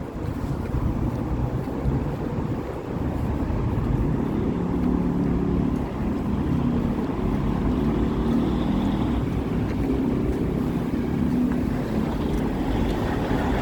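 Street traffic: vehicle engines running, a steady low rumble, with wind buffeting the microphone.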